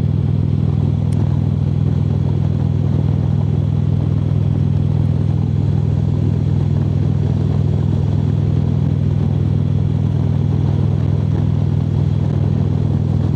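Harley-Davidson V-twin motorcycle engine running steadily at cruising speed on the highway, an even low rumble with no rise or fall in revs.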